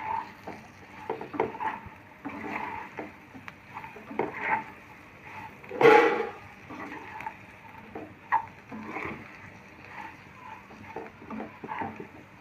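A spatula stirring and scraping fried potato pieces in a pan, in irregular strokes, with one louder scrape or knock about six seconds in.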